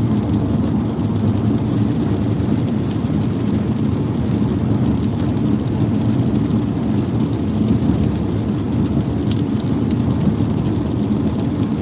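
Steady road and engine noise heard inside a car's cabin on a rain-soaked freeway, a constant low rumble with a hiss of wet tyres and rain over it.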